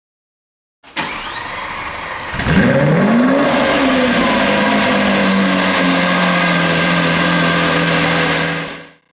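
Car engine being cranked over, catching with a quick rev flare, then settling into a steady idle. It cuts off suddenly near the end.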